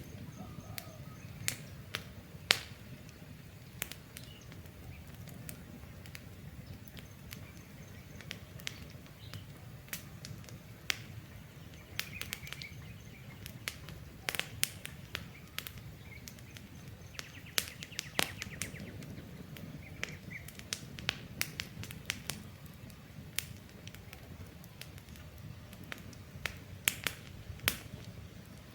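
Campfire wood crackling, with many irregular sharp pops over a steady low rumble, and faint bird chirps in the background.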